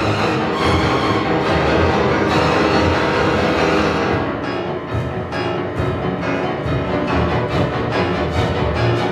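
Chamber string orchestra with piano playing classical music: sustained bowed strings, with a run of sharper accented notes in the second half.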